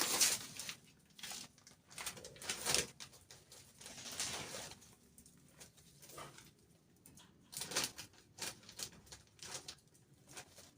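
Irregular rustling, scraping and light knocks of hands working soil and handling seedling pots, in uneven clusters with quieter gaps.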